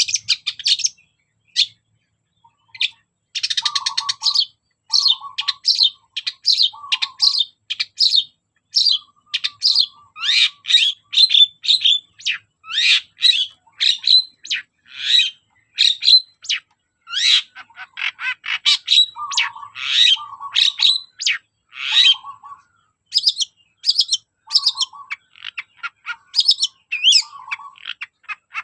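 Long-tailed shrike (cendet) singing in full voice: a fast, unbroken stream of short high chirps and trills, broken by a lower harsh note that keeps coming back every second or so.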